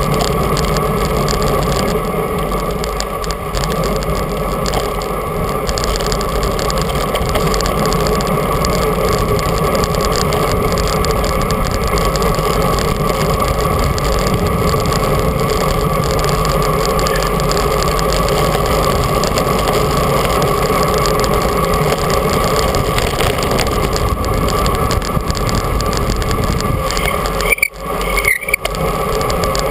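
Steady wind rush on the microphone and road noise from a bicycle moving at speed, with a couple of brief dropouts near the end.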